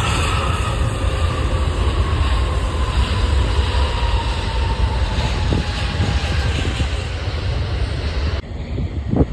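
Jet airliner on its landing approach passing close, its engines loud with a whine that falls slowly in pitch. The sound drops off abruptly near the end, followed by a couple of short knocks.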